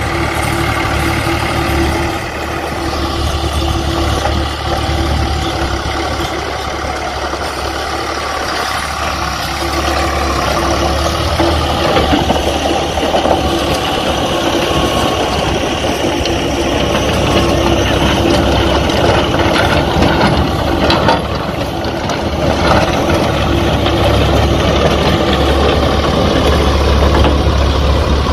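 Tractor engine running steadily, pulling a plough through dry ground.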